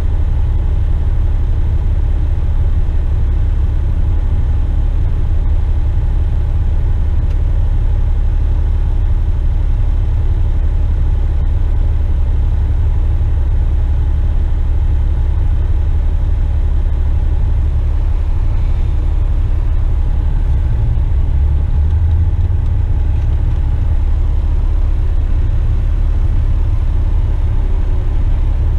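Western Star tipper truck's diesel engine running with a steady low rumble.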